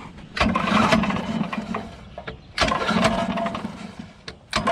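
Recoil starter of a Tecumseh small engine pulled three times about two seconds apart, the engine spinning over and dying away each time without firing; it is being cranked to check the spark plug for spark.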